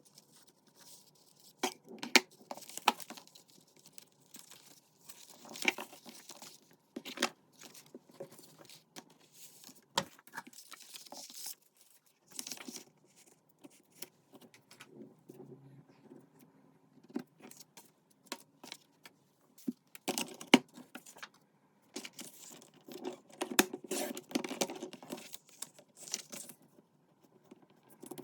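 Paper and craft materials being handled at a desk: rustling and crinkling with sharp taps and clicks in irregular bursts, with brief pauses between them.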